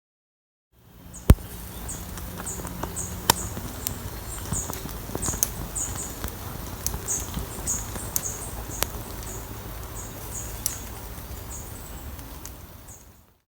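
Outdoor ambience: short high-pitched chirps repeating every half second or so, with a few sharp cracks or clicks scattered through it, the loudest about a second in.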